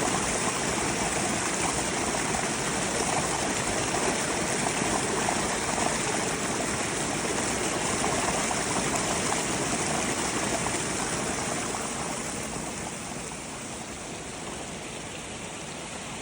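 Steady rush of a mountain stream's running water, growing somewhat quieter about three-quarters of the way through.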